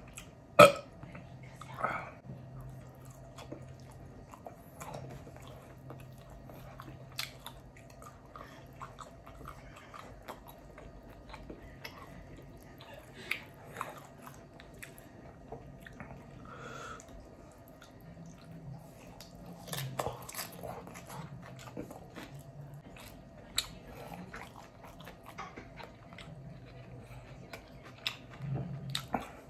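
Close-miked mouth sounds of a man chewing and biting steak and rice: irregular wet clicks and smacks, a few louder ones scattered through.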